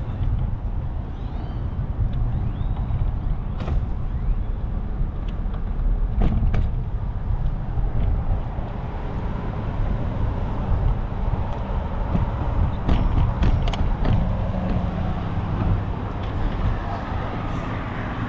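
Motor-vehicle traffic on a city street: a steady low rumble of cars running, with a few sharp clicks and a faint rising tone in the second half.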